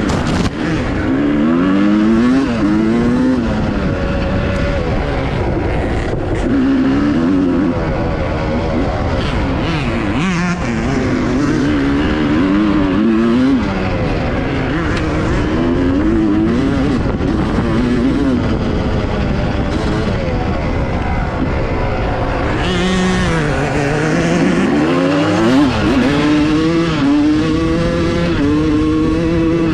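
Dirt bike engine revving hard and easing off over and over, its pitch climbing and falling every couple of seconds as the throttle opens and closes, over a constant rough rushing noise.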